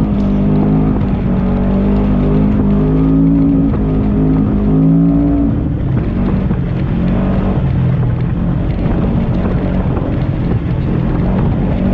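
Side-by-side UTV engine running hard, its pitch climbing a little over the first five seconds or so, then dropping to a lower, rougher note for the rest.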